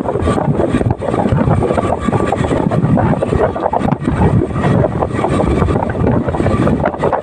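Motorcycle riding, its engine running under heavy wind buffeting on the microphone.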